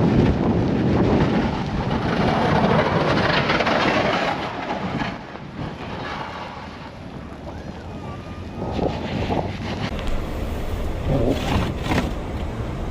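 Strong blizzard wind gusting over the microphone, loudest in the first few seconds and easing about five seconds in, with a vehicle running underneath.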